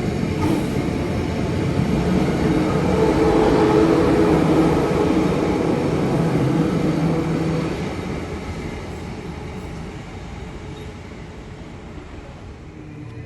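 Brisbane electric suburban train running on the rails, a steady rumble with some faint tones; it is loud for the first several seconds, then fades to a lower level about eight seconds in.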